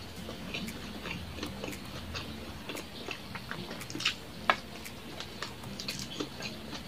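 Close-miked chewing and wet mouth sounds of a person eating rice and fried fish by hand, with a few sharper clicks about four seconds in.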